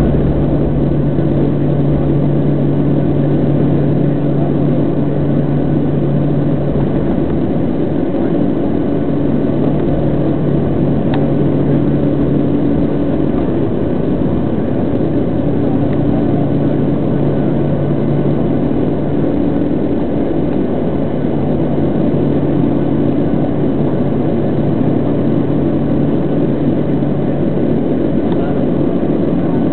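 Airliner's engines running with a steady, loud rushing noise and a low hum that fades in and out.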